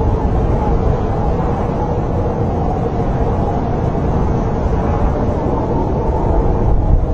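Snowstorm wind blowing steadily, a low rumbling rush with a faint, wavering whistle over it.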